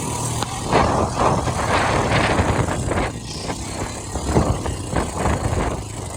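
Quad bike engine running while riding, a steady low drone under uneven rushing noise that swells and fades irregularly.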